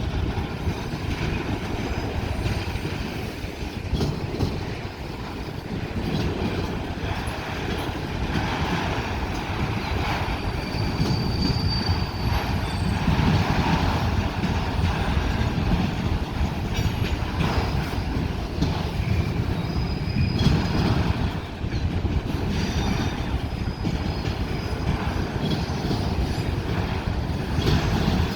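Freight train cars rolling past: a steady heavy rumble of steel wheels on rail with repeated clacking, and brief high wheel squeals a few times.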